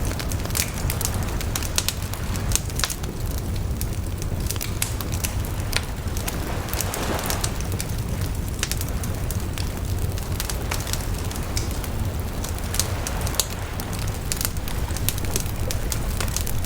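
Wood bonfire crackling, with frequent irregular sharp snaps and pops over a steady low rumble, and a brief rushing swell about seven seconds in.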